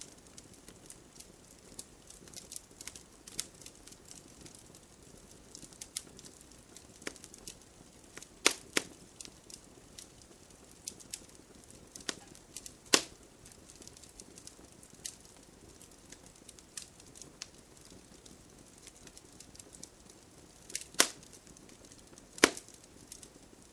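Wood fire crackling: a low steady hiss with scattered irregular snaps and pops, a few louder sharp cracks about a third of the way in, in the middle, and twice near the end.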